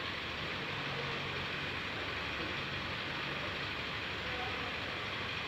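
Diesel engine of a Hydra mobile crane running steadily, a low even drone under a noisy background.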